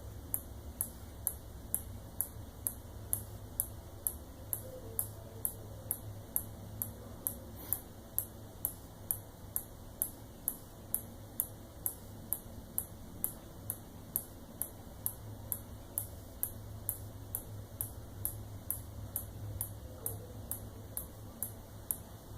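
Faint, steady ticking from a shut-off shower hand spray head, about two to three sharp ticks a second, as little air bubbles snap out of its nozzle ports. The ticking comes while water seeping through the Kohler valve slowly builds a drip at the head, the sign of the hand spray's chronic dripping.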